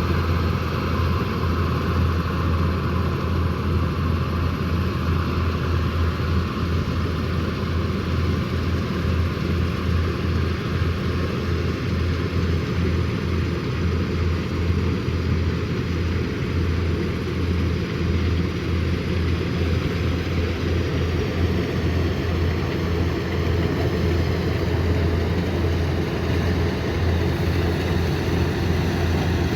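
Kubota combine harvester's diesel engine running steadily, with a constant low hum.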